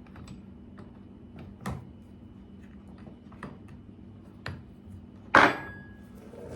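Scattered light clicks and knocks of hand tools and small metal parts being handled, with one louder metallic clink about five seconds in that rings briefly.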